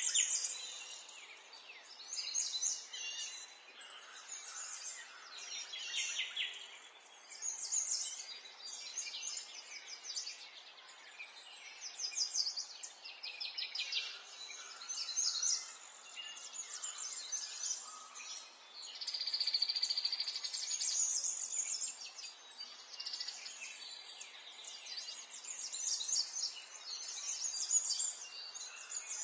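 Birds singing: many overlapping chirps and rapid trills, one after another, over a faint background hiss.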